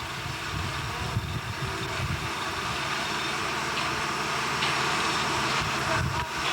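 Steady industrial noise: a low rumble with an even hiss over it, like heavy machinery running.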